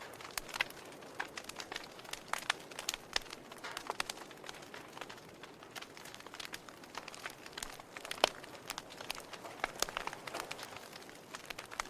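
Wood fire crackling in a fireplace: irregular sharp pops and snaps over a soft steady hiss, with one louder pop about eight seconds in.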